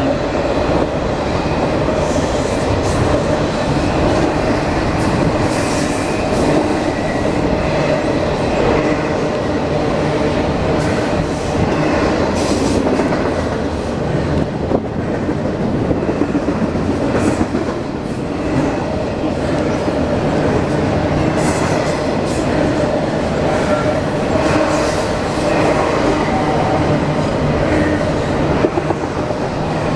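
A train's cars rolling past close by: a steady rumble of steel wheels on rail, with irregular clicks as the wheels cross rail joints.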